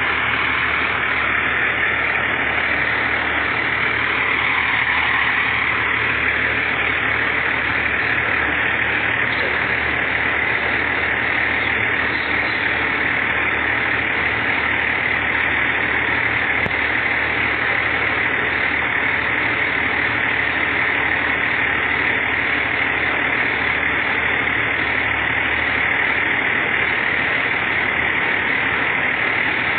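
Fire engine's engine idling steadily.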